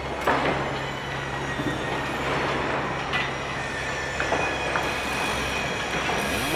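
Heavy machinery running steadily with a low engine hum, a few sharp metallic clanks and a faint high squeal.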